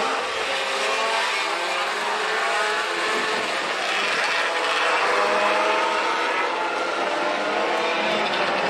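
A field of Wisconsin Sport Truck race trucks running at pace speed around an oval, several engines overlapping in a steady drone with small rises and falls in pitch.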